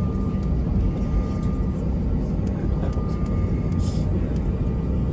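Airbus A320 airliner cabin noise, heard from a passenger seat: a steady low rumble of the jet engines and airframe, with a thin steady whine above it.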